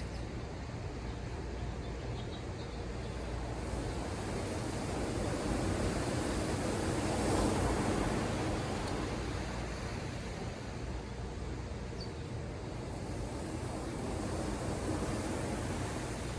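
Ocean surf washing ashore. A steady wash of waves, with one wave swelling and breaking about seven seconds in before the sound eases back.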